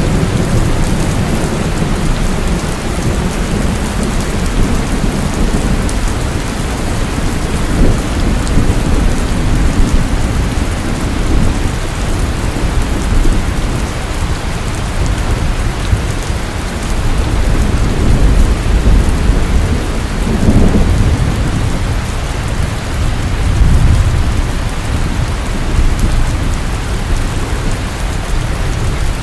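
Steady heavy rain, with low rumbles of thunder swelling and fading a few times.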